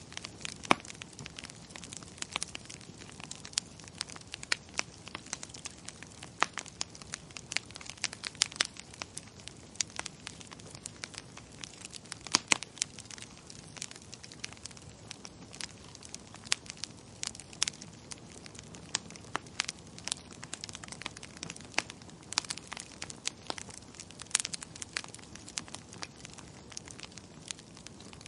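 Wood fire in a fireplace crackling, with irregular sharp pops and snaps, a few of them much louder, over a soft steady hiss.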